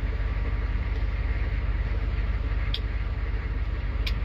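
Chevrolet turbo-diesel tow truck engine idling steadily, a few seconds after a cold start following a couple of weeks unused. Two short high ticks come late.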